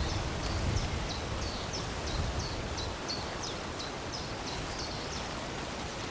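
A small songbird singing a run of short, high, downward-slurred notes, about three a second, over a steady background hiss.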